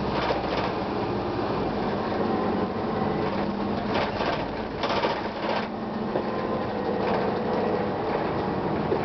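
1999 Gillig Phantom transit bus with a Detroit Diesel Series 50 engine running steadily under way, with a rattly hum through the body. Three short hissing bursts break in: one near the start and two in the middle, around four and five seconds in.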